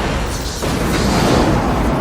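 Film sound effect of a large explosion in space: a deep, loud, rumbling blast with a noisy wash over it, with the orchestral score in the mix.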